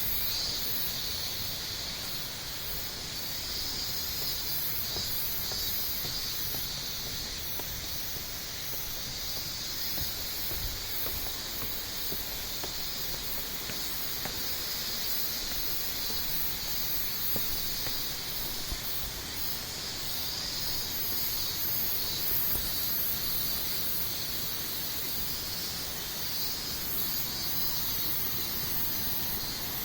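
Waterfall water pouring steadily, with insects droning continuously high above the rush of the water.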